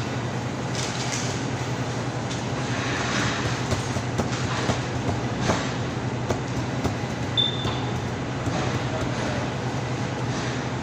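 A steady low mechanical hum and rumble with scattered knocks and clicks, and a brief high tone about seven seconds in.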